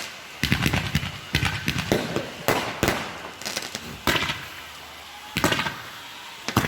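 Fireworks going off: about eight sharp bangs at irregular intervals, each trailing off in a brief crackle and echo.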